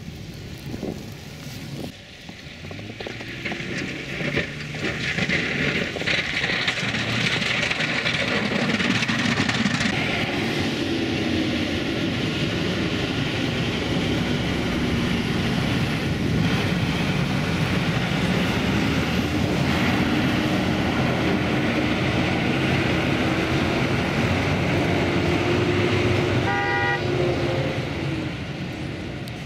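Motor vehicle noise: engine and road rush building over the first few seconds and then running steadily. A short horn toot comes near the end.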